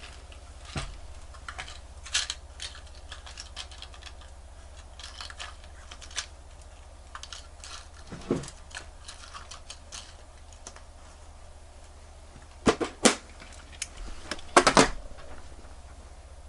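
Irregular small, sharp clicks and taps of metal watch-repair tools handling a wristwatch during a battery replacement, with louder bunches of clicks about three-quarters of the way through and again near the end. A low steady hum lies underneath.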